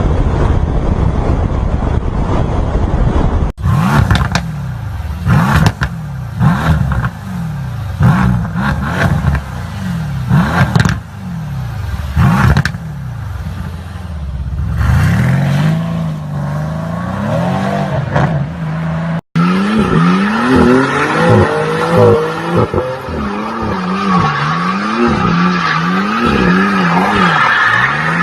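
Performance car exhausts revving hard, the engine pitch climbing and falling again and again. The middle stretch has sharp cracks between the revs. In the last stretch there are quick rev swings over a steady high squeal.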